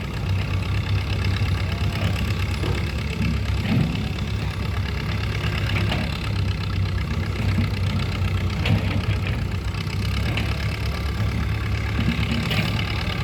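Excavator's diesel engine running steadily, with a few faint knocks over the hum.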